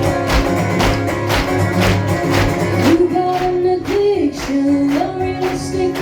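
Live band playing an upbeat, country-style hoedown intro, with strummed guitar over a fast, even beat. A sliding melodic lead line comes in about halfway through.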